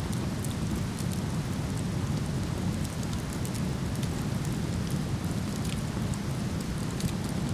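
Steady rushing of a waterfall, heaviest in the low range, with scattered small crackles and pops from a wood fire burning in a fire pit.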